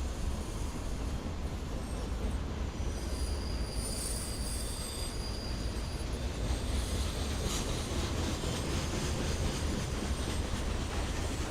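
Train rolling past with a steady low rumble; thin high-pitched wheel squeals come in about three seconds in, then a run of rapid clicks of wheels over the rails.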